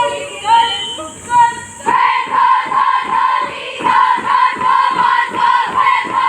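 Voices calling out, then from about two seconds in a group of voices chanting together in a steady rhythm of about two beats a second.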